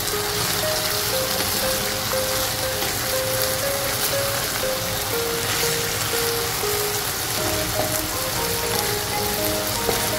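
Chicken pieces sizzling steadily in Schezwan sauce in a hot pan, under a simple background music melody.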